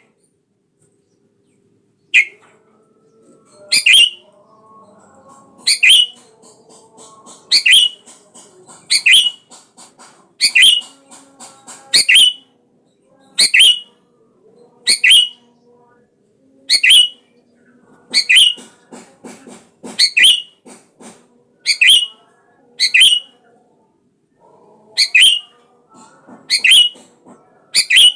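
Sooty-headed bulbul (kutilang) calling repeatedly: a loud, short call about every second and a half, with softer chattering notes between. The calls begin about two seconds in after a brief pause.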